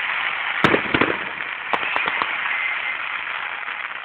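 Fireworks display going off: one big bang about two-thirds of a second in, then several sharper cracks over a steady hiss.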